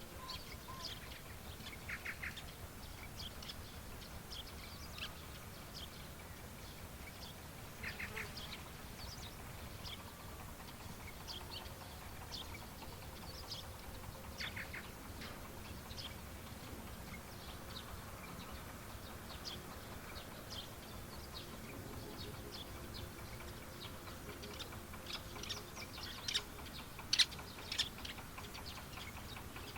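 Birds chirping and calling in short, scattered notes throughout, with a few brief buzzy trills and louder chirps near the end, over a faint low steady rumble.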